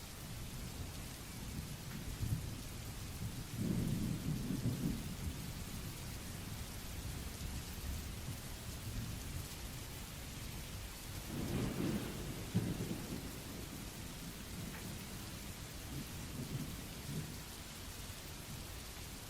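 Steady rain with a white-noise hiss, and low rolls of thunder: one about four seconds in, a stronger one around twelve seconds, and a fainter one near the end.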